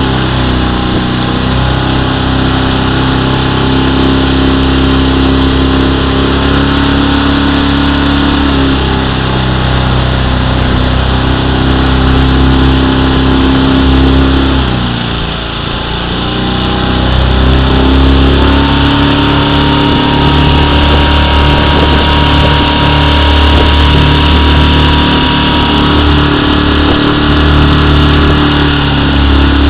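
Motorboat engine running steadily under way; about halfway through its pitch and level drop briefly as the throttle eases, then pick back up.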